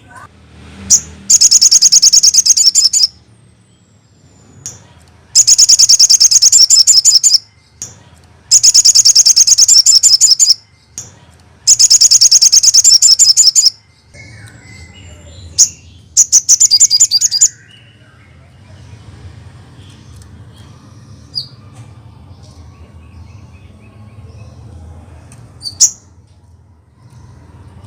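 Sogon bird song played as a masteran (tutor or lure) recording: very fast, high trills in loud bursts of about two seconds, four long ones and a shorter fifth, with single sharp chirps between. It is the kind of call meant to set other sogon birds answering.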